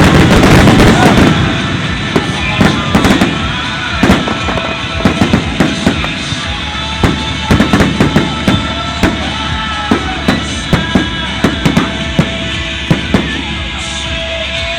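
Aerial fireworks going off: a dense, loud barrage in the first second or so, then a quick string of sharp bangs and crackles.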